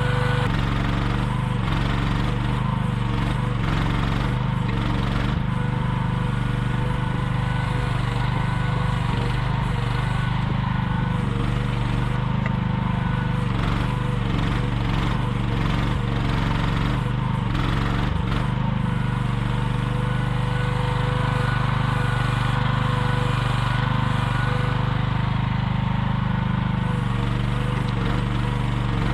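Small engine of an AGT QH12R 1-ton mini excavator running steadily while digging, with a few short knocks along the way.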